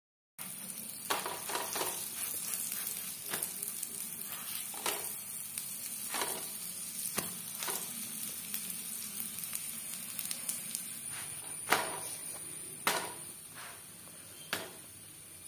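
Wheat parottas sizzling on a hot flat iron tawa: a steady frying hiss broken by sharp crackles every second or two. The hiss eases off somewhat near the end.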